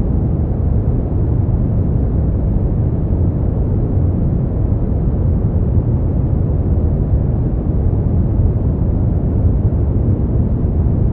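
Steady sleep-aid noise: an even, unbroken hiss with most of its weight down low, so it sounds deep and rumbly rather than bright.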